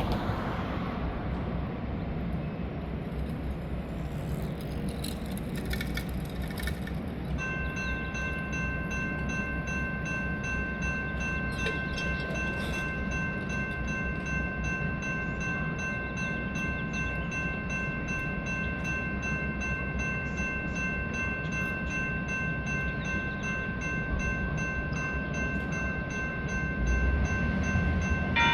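Electronic grade-crossing warning bell starting to ring about a quarter of the way in and ringing steadily on, over the low rumble of a light rail train. The sound gets louder near the end.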